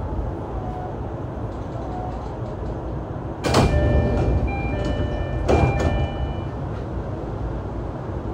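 E233-3000 series electric train running, heard from inside its motor car (MoHa E233-3639, with MT75 traction motors under Hitachi IGBT-VVVF control): a steady low rumble. About three and a half seconds in, and again about two seconds later, there is a loud clatter, with brief ringing tones sounding between and after them.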